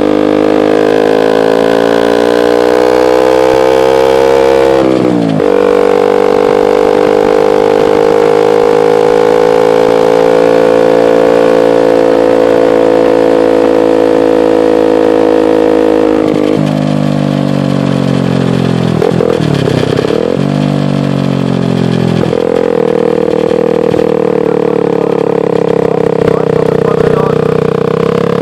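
KTM Duke 125's single-cylinder four-stroke engine running loud through an Akrapovic exhaust with the dB killer removed. The revs climb over the first five seconds, drop sharply, hold steady for about ten seconds, dip and waver around two-thirds of the way in, then hold steady again.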